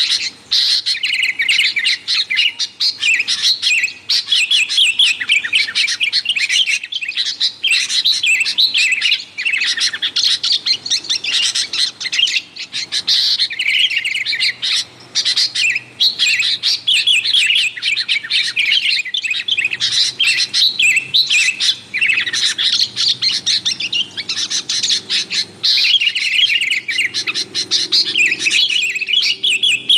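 Sooty-headed bulbul (kutilang) chattering: a rapid, continuous stream of short, bright chirps with only brief pauses.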